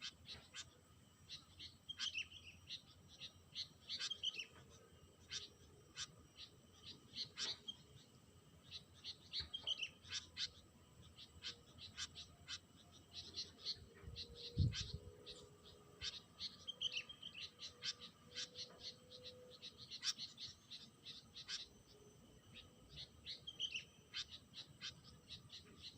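Small songbirds calling: many quick chirps, with a short descending whistle repeated every few seconds. A single low thump sounds about fourteen seconds in.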